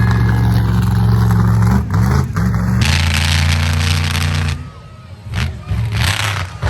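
A large monster truck engine running loudly at a steady pitch, with an abrupt change in the sound about three seconds in. It cuts out about four and a half seconds in, leaving quieter background noise with a few short sounds.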